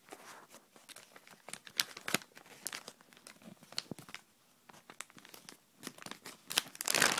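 Plastic Ziploc bag crinkling in irregular crackles as it is handled and opened, with a louder rustle near the end.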